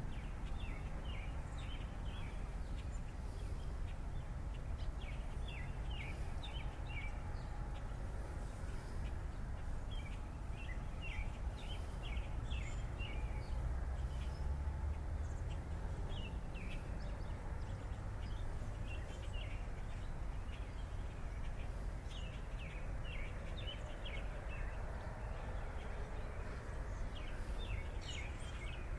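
Birds chirping, many short high calls scattered throughout, over a steady low background rumble of open-air noise.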